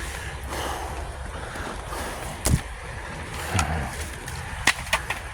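Heavy rain falling steadily, with a few sharp taps of drops landing close by, over a low steady rumble.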